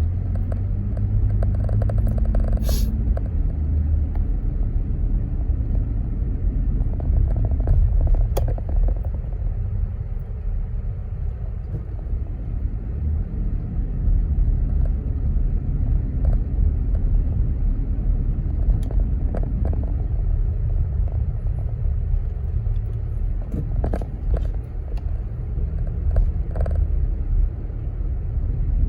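Car driving: a steady low rumble of engine and tyres on the road, with a few faint clicks.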